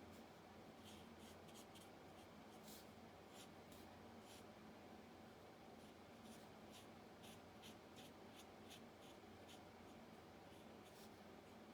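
Faint scratchy strokes of a Stampin' Blends alcohol marker's brush tip colouring on cardstock. The short strokes come irregularly, several a second at times, over a low steady room hum.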